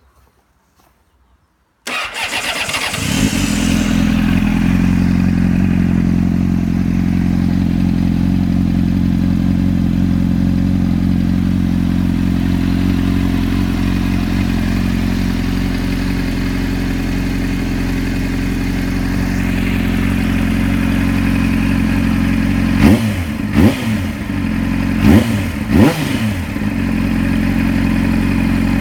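2004 Honda CBR600's inline-four through a Yoshimura RS-5 aftermarket exhaust, starting up about two seconds in and settling into a steady idle. Near the end it is revved in four quick throttle blips, each rising and falling back to idle.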